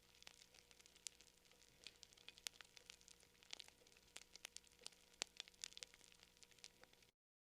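Faint wood campfire crackling, with many small irregular sharp pops over a soft hiss. The sound cuts out to total silence about seven seconds in.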